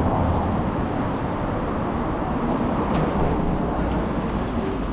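City street ambience: a steady rumble of traffic.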